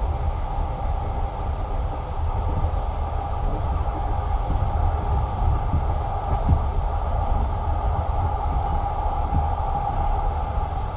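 Passenger train carriage rolling along at speed: a steady low rumble of wheels on rail, with a constant hum and a few scattered knocks from the wheels, heard from inside the carriage.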